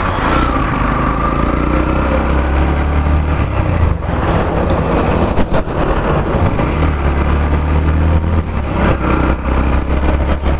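Yamaha FZ-X's 149 cc single-cylinder engine running on the move, heard from the rider's seat mixed with wind and road noise. The low engine note eases for a couple of seconds midway, then picks up again.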